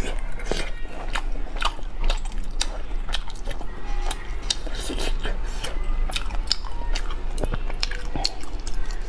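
Close-miked chewing of food from a spicy hot pot, with many short wet mouth clicks and smacks.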